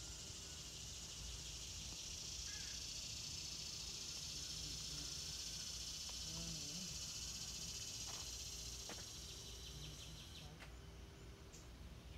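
A steady, high insect drone that eases off about ten seconds in, with a few faint bird chirps.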